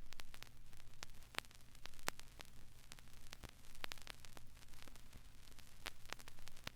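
Faint irregular crackling and clicks over a steady low hum, like the surface noise of a vinyl record.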